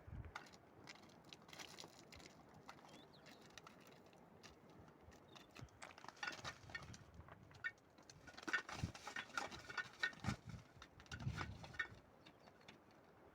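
Irregular crunching and clicking steps on stony ground, coming in clusters about six seconds in and again from about eight and a half to twelve seconds.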